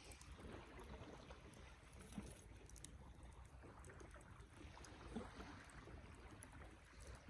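Wood fire burning quietly: faint crackling with scattered small pops over a low rumble, with a couple of slightly louder pops about two and five seconds in.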